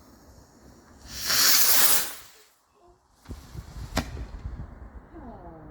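Firework hissing loudly for about a second, then after a short quiet a single sharp crack about four seconds in.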